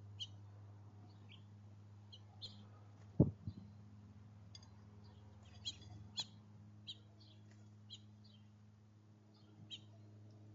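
Small songbirds at a feeder giving short, high chirps scattered throughout, with a sharp knock about three seconds in and a lighter one about six seconds in, over a steady low hum.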